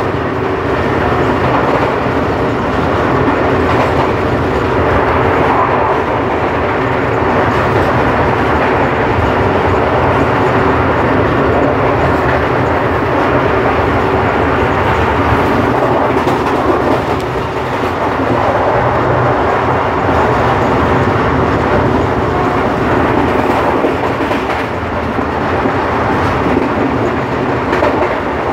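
Express passenger train running at high speed, a loud, steady noise of wheels on the track heard from aboard.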